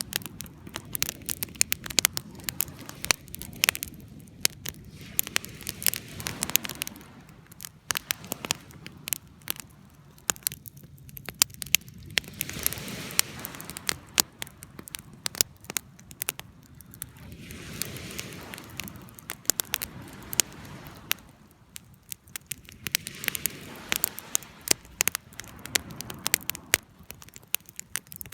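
Wood fire burning, crackling with frequent irregular sharp pops over a soft rushing noise that swells and fades every few seconds.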